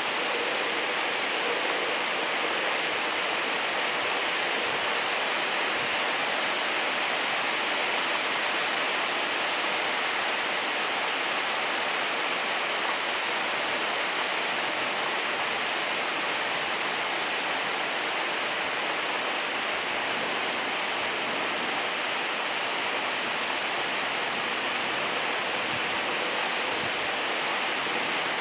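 Steady rain falling, a dense even hiss of drops with no break or change.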